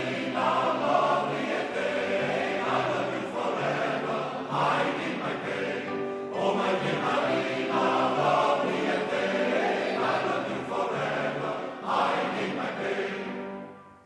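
A choir singing with musical accompaniment, in sustained chords; the music fades out near the end.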